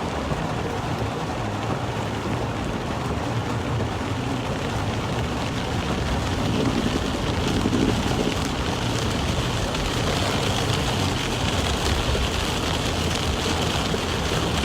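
Heavy rain falling on a moving car, heard from inside the cabin, with tyre hiss on the wet road. The steady noise swells about halfway through and stays a little louder.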